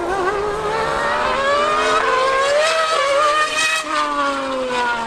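High-revving racing engines accelerating hard in a drag race, pitch climbing for nearly four seconds, then dropping sharply and falling away as they pass by.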